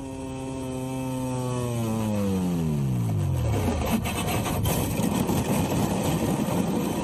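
A MotoGP racing motorcycle's engine holds a steady note, then falls in pitch about two to four seconds in. A rough, grainy scraping noise follows for the last few seconds.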